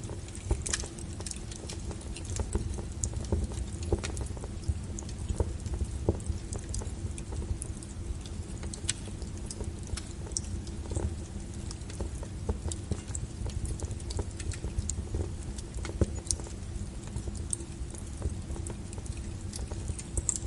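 Wood fire crackling: irregular sharp pops and snaps from burning logs over a steady low rumble of flame.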